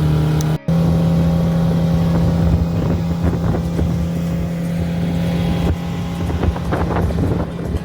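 Motorboat engine running with a steady hum, which drops out for an instant under a second in and sounds weaker near the end, with wind on the microphone.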